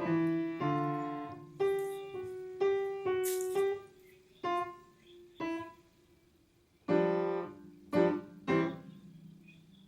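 Piano playing a slow run of notes and chords, each struck and left to fade, with a pause of about a second past the middle before three more chords near the end.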